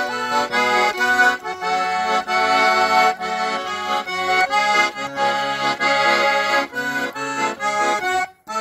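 Garmon (Russian button accordion) playing the song's closing instrumental bars: a melody over chords and bass notes. It breaks off for a moment near the end.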